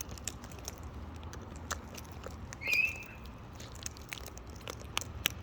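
Wild parrots cracking and nibbling birdseed: scattered crisp clicks of beaks on seed, with one short high call about halfway through.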